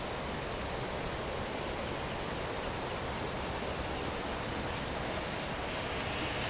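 Steady rushing of floodwater pouring from an overflowing pond after heavy rain.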